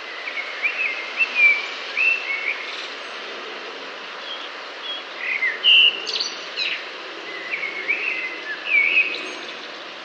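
A bird singing in three warbled phrases of gliding notes, the middle one with a short higher twittering part, over a faint steady background hiss.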